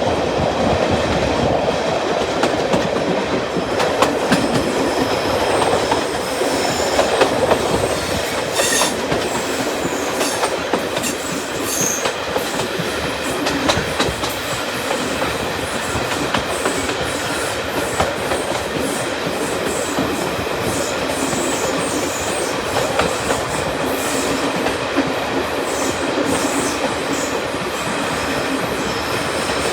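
Diesel-hauled heritage passenger train running along the line: steady rumble and rail noise, with the wheels clicking over rail joints now and then and faint high wheel squeal at times.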